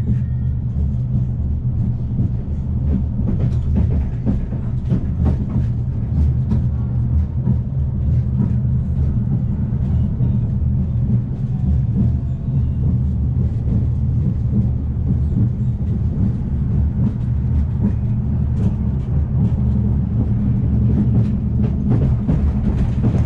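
Afrosiyob high-speed train heard from inside its carriage while running: a steady low rumble with frequent light clicks and knocks from the car.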